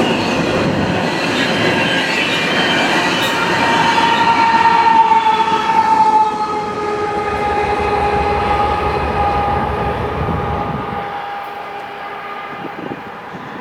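Freight train of double-stack well cars rolling past, with a low rumble under a steady high-pitched squeal. The rumble drops away about eleven seconds in and the sound fades.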